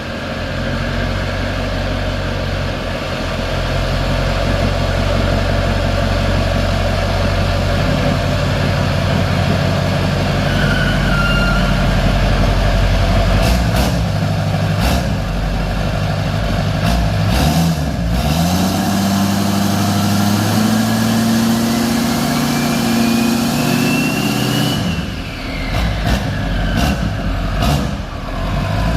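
Pulling truck's engine running steadily, with a whine that rises in pitch for several seconds in the second half and then falls away, and a few sharp knocks. The exhaust manifold on this engine is cracked.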